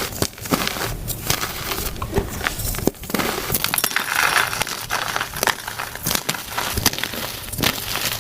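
Reformed gym chalk cakes being crushed and crumbled, a dense run of sharp, crunchy crackles, played at double speed.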